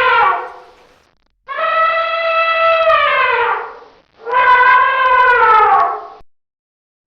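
Elephant trumpeting: the end of one call, then two full calls of about two seconds each, every one sliding down in pitch as it ends.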